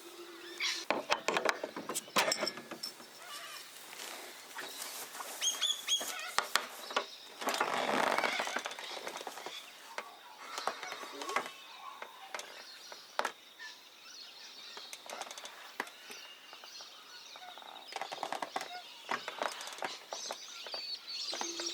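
Birds chirping faintly amid scattered clicks and knocks, with a brief rush of noise about eight seconds in.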